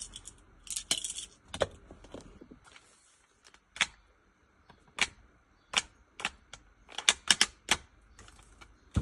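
Brief rattle of coffee beans about a second in, then a dozen or so sharp clicks and light knocks as the coffee grinder's plastic parts are handled and fitted together, several coming close together near the end.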